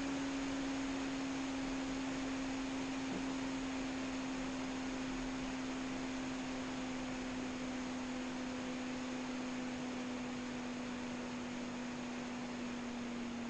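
12 V ventilation fans running off a 220V/12V speed-control adapter: a steady hum over a hiss of moving air, the hum's pitch and loudness sinking slowly as the fans turn a little slower.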